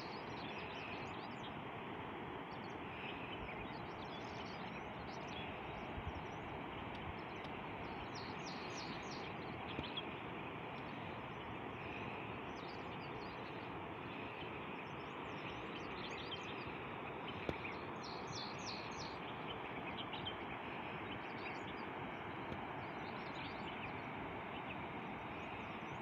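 Birds chirping in short, scattered bursts of quick high notes over a steady, even rushing background.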